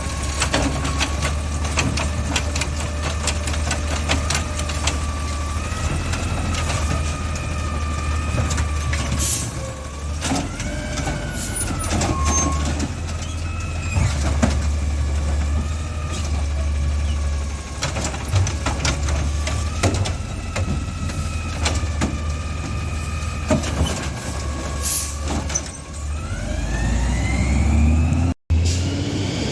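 Garbage truck running with its diesel engine droning and a high whine that rises and falls, broken by frequent sharp clanks and air-brake hisses. Near the end the whine climbs and falls away.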